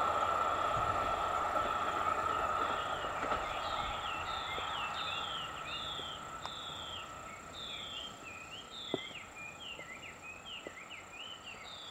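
Rail noise of the Kiya 95 inspection diesel railcar fading steadily as it draws away. Over it, a bird chirps over and over in short notes that fall in pitch, about two a second.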